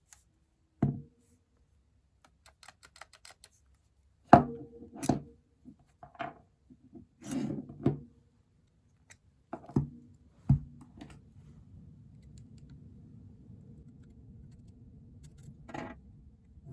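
Parts of a manual hand coffee grinder being handled during a screw repair: several sharp knocks and clicks, a quick run of light ticks, then a few seconds of steady low scraping that ends with another knock.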